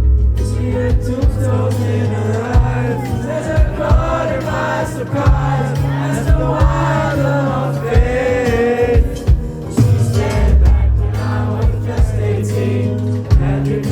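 Live band music: steady bass notes and drum hits under a wavering lead melody.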